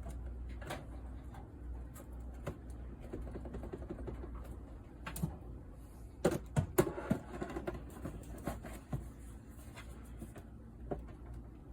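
Scattered light knocks and clicks of a coffee maker being handled and pressed down onto a countertop, with a cluster of sharper taps about six to seven seconds in, over a low steady hum.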